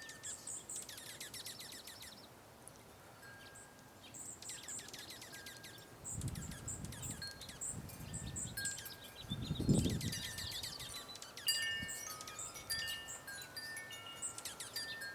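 Small birds chipping and giving quick trills, with wind chimes ringing a few clear notes of different pitches in the second half. A low rushing sound swells twice in the middle, the second swell the loudest.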